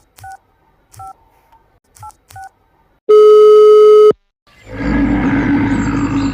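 Four short telephone keypad dialing tones, then a single loud, steady beep lasting about a second. After a brief gap, a loud steady noisy hum begins and runs on.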